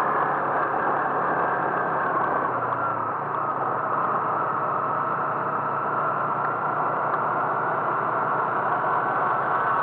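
A motor vehicle travelling at a steady speed: constant engine and road noise with a faint, steady high whine.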